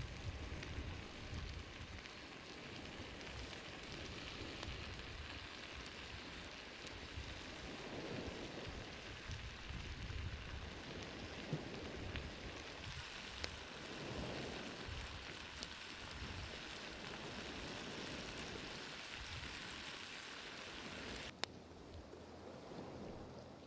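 Campfire cooking sounds: a steady sizzling hiss with scattered sharp pops over a low rumble. Near the end a sharp snap comes and the hiss drops quieter.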